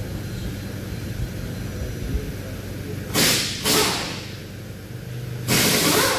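Three hissing blasts of pressurised gas from a nozzle, as in blowing off or spraying engine parts: two short ones about three seconds in, half a second apart, then a longer one near the end. A steady low hum runs underneath.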